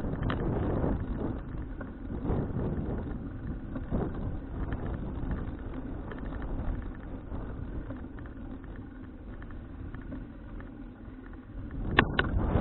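Wind buffeting an action camera's microphone while riding a bicycle, with low road rumble and small rattles. A sharp knock comes near the end.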